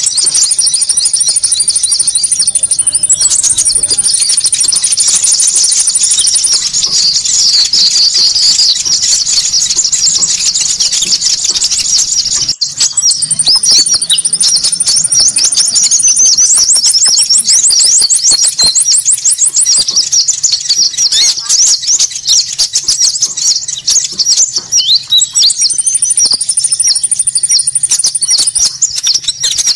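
Busy, continuous high-pitched twittering and chattering of several small birds, as used in an Indonesian bird-lure recording of konin calls. A long, thin, very high trill recurs several times over the chatter, and a fast rattling trill stands out about two-thirds of the way through.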